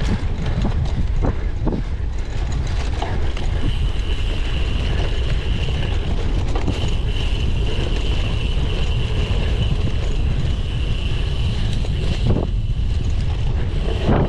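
A cyclocross bike ridden over rough ground, with a heavy rumble of wind and jolts on the microphone and a few knocks early on and near the end. A steady high whine from the bike runs through the middle stretch.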